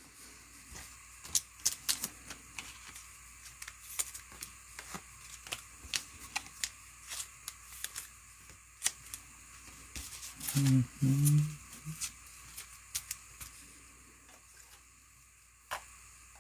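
Trading cards and packs being handled and flipped through by hand: irregular sharp clicks and snaps of card stock, with a brief low murmur of a voice about ten seconds in.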